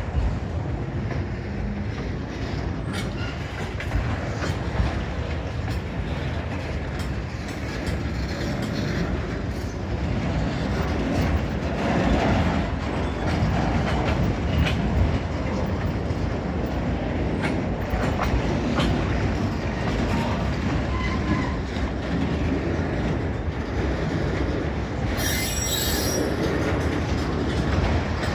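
Freight train cars rolling past: a steady rumble of steel wheels on the rails, with irregular clicks as the wheels cross rail joints. A brief high-pitched wheel squeal comes near the end.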